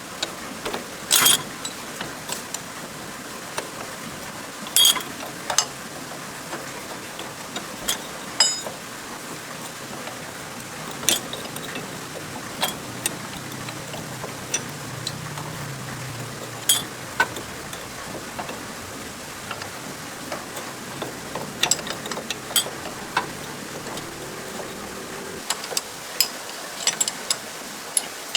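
Hand tools working on metal tractor parts: irregular sharp clicks and clinks, a few of them louder, over a steady background hiss.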